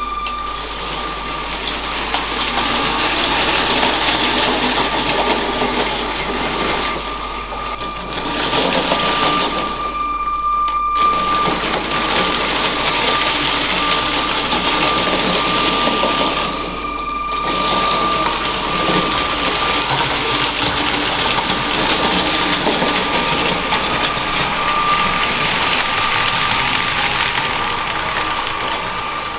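LEGO train running on plastic track: a steady whirring rattle from its motor and wheels over a constant thin whine. The sound dips away briefly three times, then returns.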